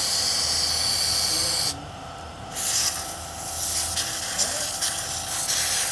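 A loud hiss of escaping pressurised air or spray in two spells. The first cuts off sharply about 1.7 s in, and the second starts again about a second later and flutters unevenly.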